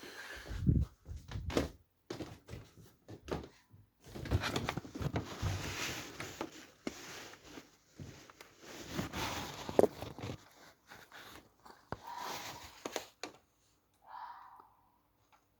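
Thumps, knocks and rustling from movement close to the microphone. After about twelve seconds this gives way to two short, hoarse calls, which the recordist suspects are a fox's.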